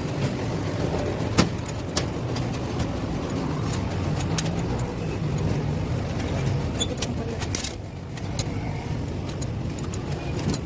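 Steady low rumble of a running vehicle engine, with scattered sharp metallic clicks and taps.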